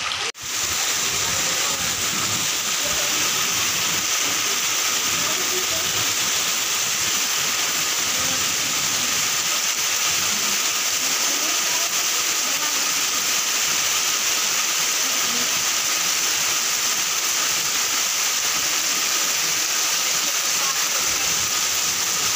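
Steady rain falling on a paved lane and rooftops, a continuous even hiss, with a brief break right at the start.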